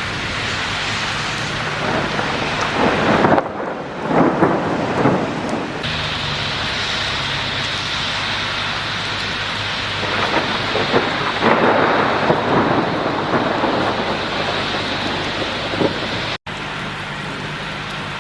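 Rain falling steadily during a thunderstorm, with thunder rumbling in swells a few seconds in and again past the middle. The sound changes abruptly a couple of times and drops out for an instant near the end, where separate recordings are joined.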